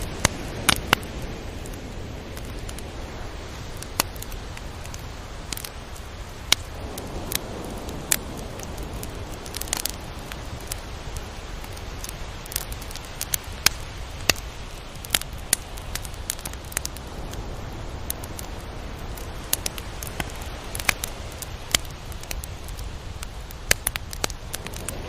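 Beach ambience: a steady wash of surf with waves swelling slowly about every ten seconds, scattered with many sharp crackling clicks.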